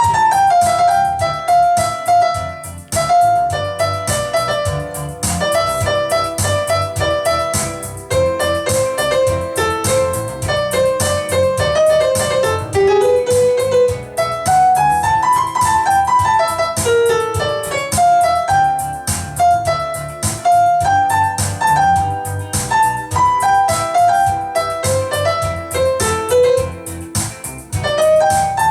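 Piano-style keyboard music: a melody moving in short stepping notes over a steady, dense rhythmic accompaniment.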